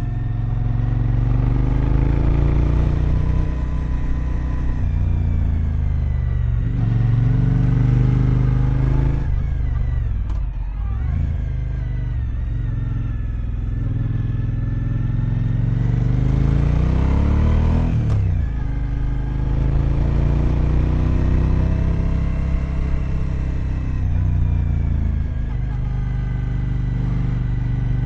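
Adventure motorcycle engine heard from the bike while riding, its pitch climbing under acceleration and falling away when the throttle is closed, several times. There is a sharp drop about two-thirds of the way through, as when shifting or slowing for a bend.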